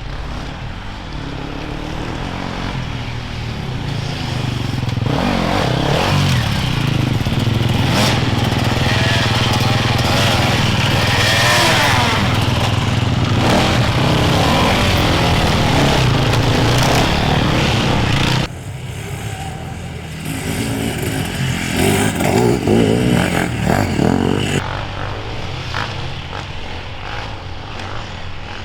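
Enduro motorcycle engines revving and accelerating, rising and falling in pitch as they pass. The sound drops suddenly about two-thirds of the way through, then another bike revs in a short burst before settling to a quieter running sound.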